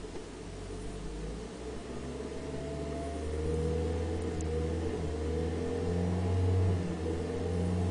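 Second-generation Toyota Prius's engine running and revving up, a low drone growing steadily louder with a faint whine that rises in pitch.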